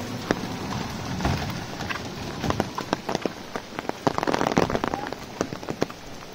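Steady rain falling on a wet brick road and puddles, with many close, sharp raindrop hits. The hits are thickest between about two and a half and five and a half seconds in.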